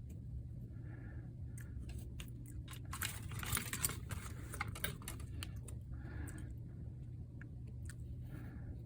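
Light clicks and taps of small repair tools and parts being handled, with a denser run of clicks and scraping about three to four seconds in, over a steady low hum.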